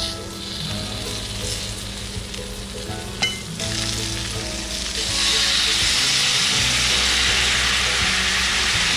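Salted mackerel pieces sizzling in sesame oil in a nonstick frying pan, with a sharp tap about three seconds in. About five seconds in, the soy-and-mirin sauce hits the hot pan and the sizzle jumps to a loud, steady hiss.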